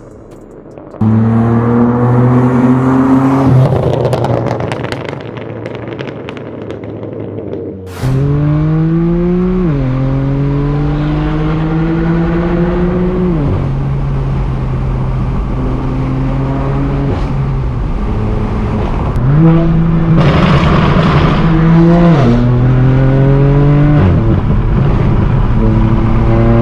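Straight-piped BMW M4 F82's twin-turbo inline-six exhaust under hard acceleration. The engine note climbs in pitch and drops at each upshift, several times, with sudden jumps in loudness about one second and eight seconds in.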